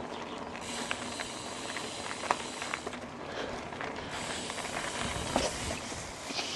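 Mountain bike's tubeless tyres rolling over a dirt trail: a steady hiss with many small scattered ticks and crackles, with wind on the microphone.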